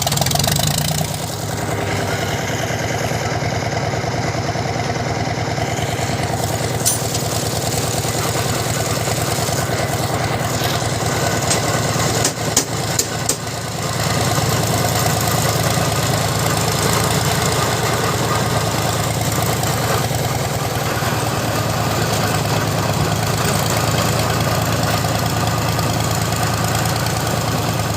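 Mitsubishi 6D15C six-cylinder diesel engine of a Cat MS120-8 excavator running steadily at idle. About halfway through the sound dips briefly with a few clicks, then the engine runs on a little louder.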